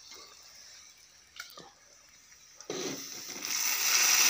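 Mostly quiet with a few faint clinks, then a knock, and near the end food starts sizzling loudly and steadily as it fries in a hot pan.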